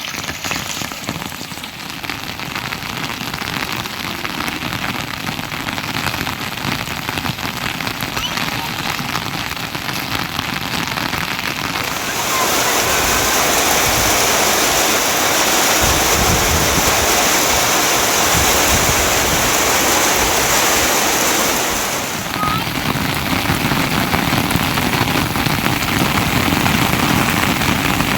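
Steady rain falling, an even hiss of drops on surfaces. It turns abruptly louder and brighter about twelve seconds in and drops back again about ten seconds later.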